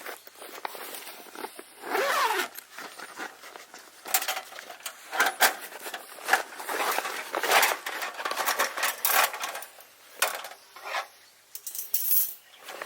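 Metal clinking, clattering and scraping as a Captain Stag V-type Smart Grill, a folding steel fire stand, is unfolded and set up by hand.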